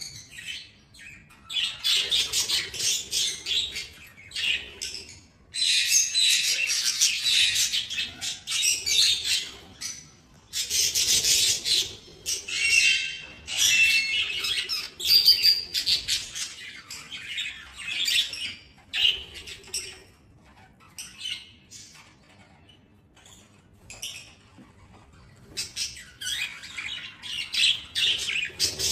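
Flock of budgerigars chattering in an aviary. The chatter comes in loud stretches of a few seconds and drops away for several seconds past the middle.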